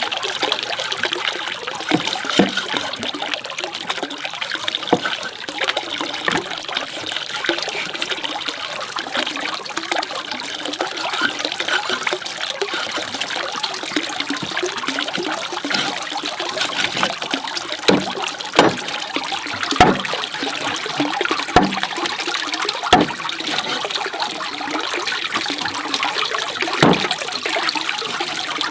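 Water running or splashing steadily, with scattered sharp knocks every second or few.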